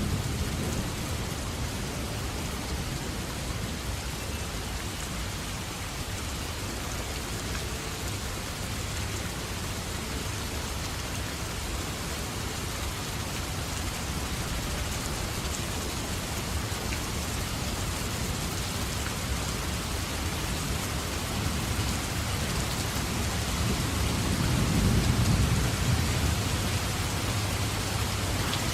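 Steady heavy rain falling, with a low rumble of thunder that swells and fades near the end.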